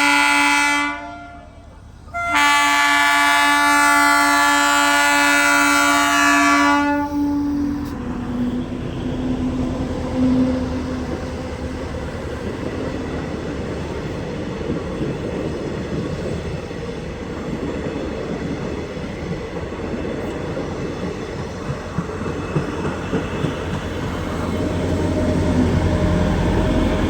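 Train horn sounding two long blasts, the first breaking off about a second in and the second held until about seven seconds. Then the train runs past with a steady rattle of wheels clicking over the rail joints, the low rumble growing louder near the end.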